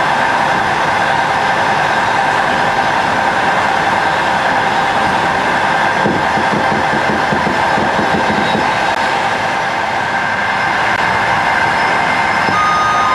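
Running noise heard from inside a passenger train carriage: a steady rush and rumble with a constant whine. From about six seconds in there is a short run of rhythmic wheel clatter. Near the end a new whine begins that falls in steps.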